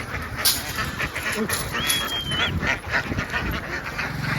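A large flock of ducks quacking, many overlapping calls at once. A short, high, steady whistle sounds about two seconds in, and a sharp knock comes near the start.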